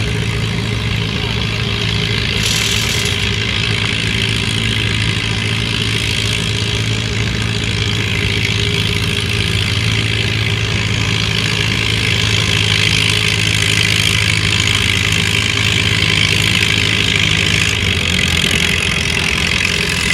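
Farm-stock tractor's engine running steadily during a tractor pull; its tone shifts about eighteen seconds in.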